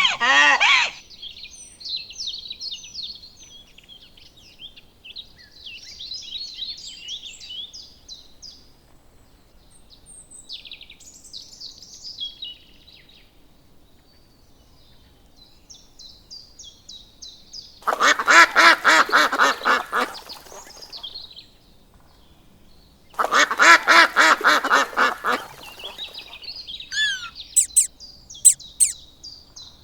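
Birds calling: faint high chirping for the first dozen seconds, then two loud runs of rapid, harsh calls lasting a few seconds each, and short falling whistles near the end.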